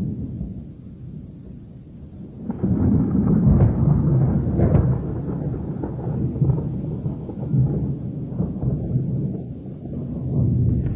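Strong storm wind buffeting the microphone: a low, gusting rumble that swells sharply about two and a half seconds in.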